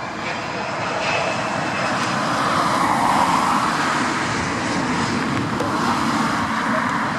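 Dassault Falcon 7X business jet's three turbofan engines running at approach power as it comes in to land and passes by, a steady jet rush that swells to its loudest about three seconds in.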